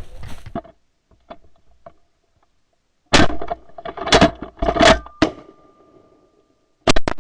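A volley of shotgun shots, about six in all: four in quick succession, then a pause, then two more close together near the end, each with a short echoing tail.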